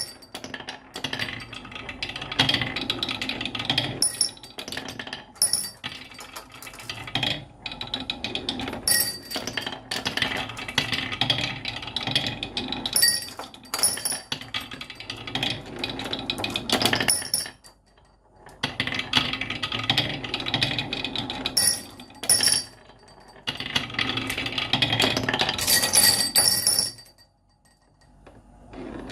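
Marbles rolling and clattering down a wooden marble run: dense rapid clicks and rattles, with brief pauses about 18 and 27 seconds in.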